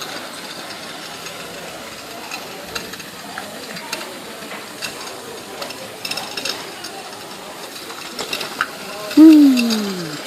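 Hornby OO-gauge model steam locomotive running round the track, its small electric motor and wheels making a steady whirring rattle with light clicks. About nine seconds in, a brief loud tone slides down in pitch for about a second.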